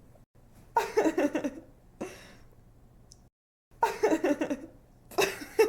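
A young woman giggling in three short bursts of laughter, with a faint breath between the first and second.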